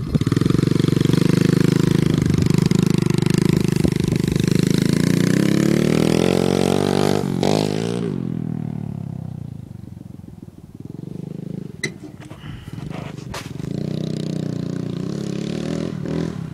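Pit bike engine running hard and loud, then its pitch falls and the sound fades about eight seconds in. A few sharp knocks follow, and the engine is heard again, quieter, near the end.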